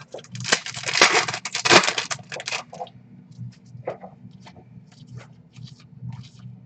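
Crinkling of a trading-card pack wrapper for the first three seconds or so, followed by scattered soft clicks and rustles of cards being handled.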